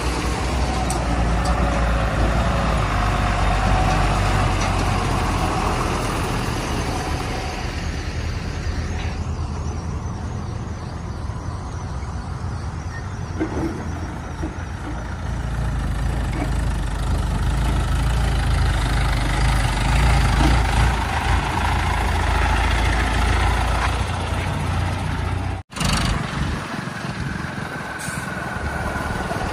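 Heavy diesel machinery engine running steadily with a deep, loud rumble. It drops out for an instant about 26 seconds in, then carries on.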